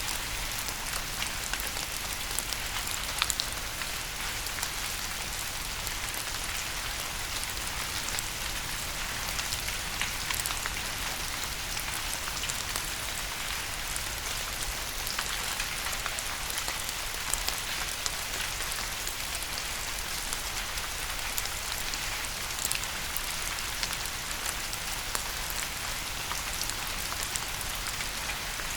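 Steady rain falling on a surface, an even hiss with many close individual drop taps and a few louder drops.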